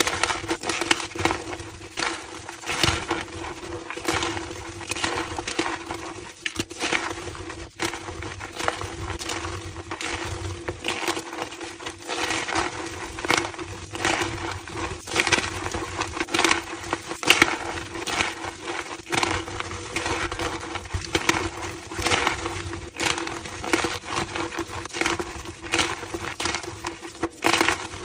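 Homemade gym chalk slabs being crushed, a dense, continuous run of squeaky, crunching crackles.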